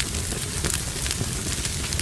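Wood fire crackling in a fireplace: a steady low rumble and hiss with many small, irregular pops.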